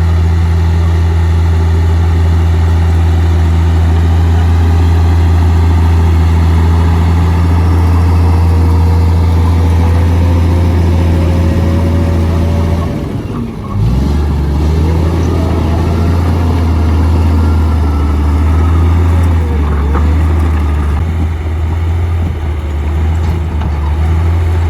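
Komatsu D58P bulldozer's diesel engine running loud and steady, with a thin whine rising slowly above it. About thirteen seconds in the engine speed briefly sags and then picks back up.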